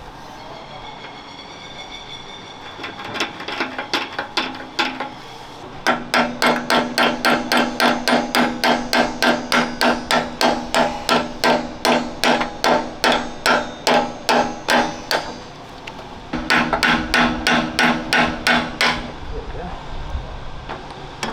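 Steel hammer blows ringing on steel as a fitting is driven out of armour plate. A few light taps come first, then a long run of fast, even blows at about four a second, a short pause, and a second run.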